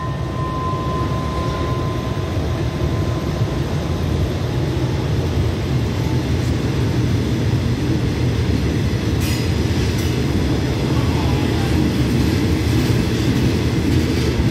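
Passenger train pulling out of a station, its carriages rolling past the platform with a steady low rumble of wheels on rail that grows slightly louder. A ringing bell tone fades out in the first two seconds.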